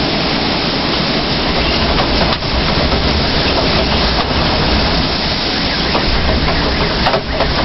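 Hurricane-force typhoon wind blowing hard and steadily, buffeting the microphone with a loud, deep rumbling noise.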